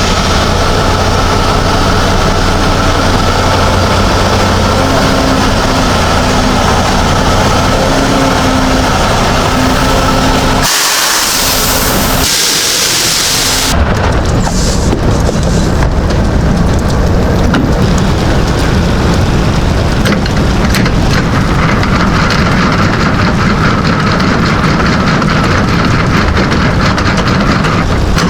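Truck driving in rain: a steady engine drone under a constant rush of rain and road noise. For about three seconds near the middle the low drone drops out, leaving only a high hiss.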